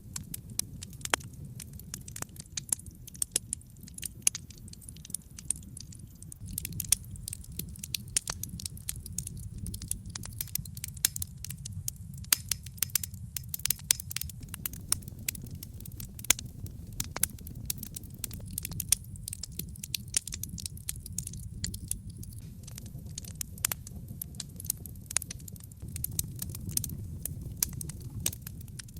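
Wood fire in a fireplace burning steadily, with frequent irregular sharp crackles and pops from the burning logs over a low steady rumble of the flames.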